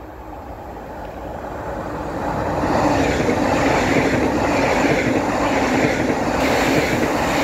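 PKP Intercity EIP Pendolino (ED250) electric express passing through a station at speed without stopping. A rush of wheels on rail and air grows steadily louder for about two and a half seconds as it approaches, then holds as a loud, steady rush while the carriages sweep by.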